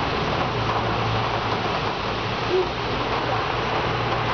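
Steady rain falling, drops pattering on a metal window ledge, with a low steady hum underneath and a short tone about halfway through.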